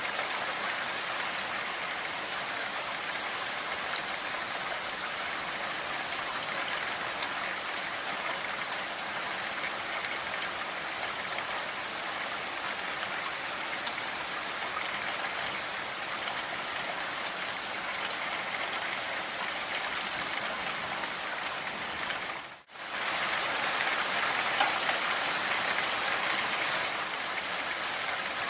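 Steady rainfall, a continuous even hiss of drops. About 22 seconds in it cuts out for a split second, then resumes slightly louder.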